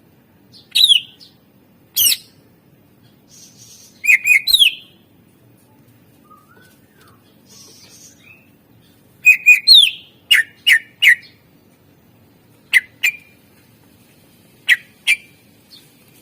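Cucak ijo (green leafbird) giving loud, sharp call notes in short bursts of two to four quick notes, many sweeping downward, with pauses of a second or more between bursts.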